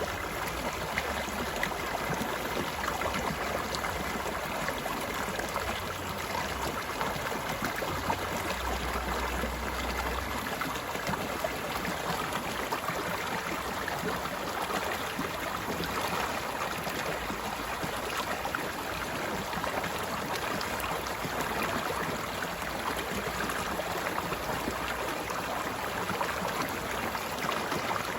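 Stream water flowing steadily: a continuous babble of small splashes and gurgles.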